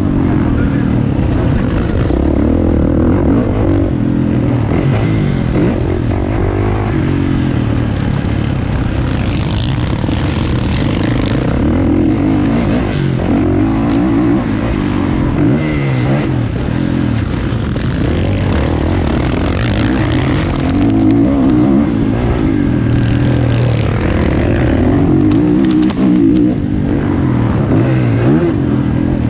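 Motocross bike engine in the 450cc class revving up and down continuously, the pitch rising and falling with throttle and gear changes.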